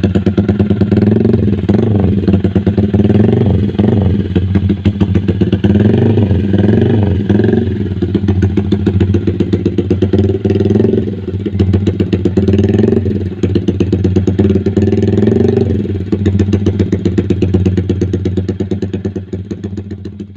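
Yamaha MX King 150's single-cylinder four-stroke engine running through an aftermarket RCB racing exhaust, idling and blipped up in short revs several times. The sound dies away near the end.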